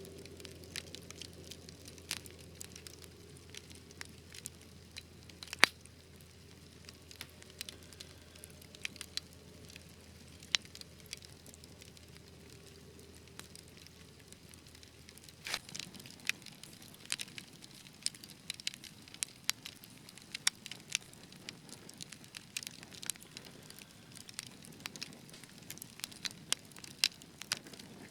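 Wood fire crackling: a soft hiss with irregular sharp pops and snaps, one loud pop about six seconds in, and the popping thickening in the second half.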